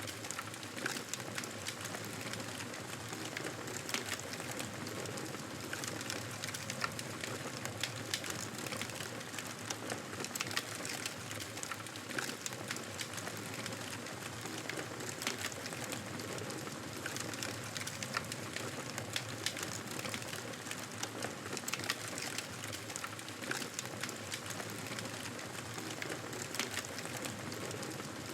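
Campfire burning: wood crackling with frequent sharp pops and snaps over a steady hiss.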